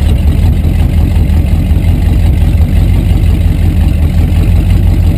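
A rat rod's open-topped engine idling loudly with an uneven, pulsing beat, heard from inside the car's cab.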